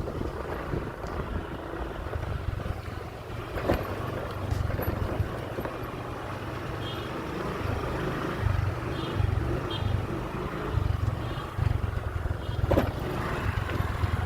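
A motorcycle running along on a ride, with wind buffeting the microphone in an uneven low rumble. A sharp knock sounds once near 4 seconds and again near 13 seconds.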